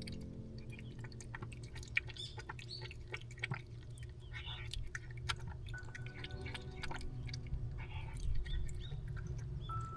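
Cats crunching dry food: a steady run of small, irregular crunches and clicks over a low steady hum.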